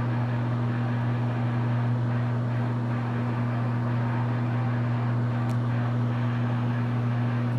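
Microwave oven running: a steady electrical hum with a fan's even whir, while clams steam inside.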